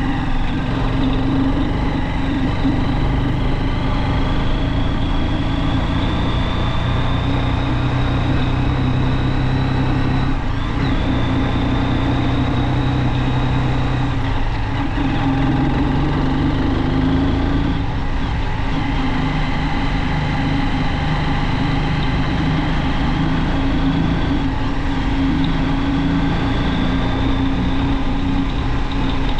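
Junak M12 motorcycle engine running while riding, a steady note that rises and falls gently with road speed, with a couple of brief dips.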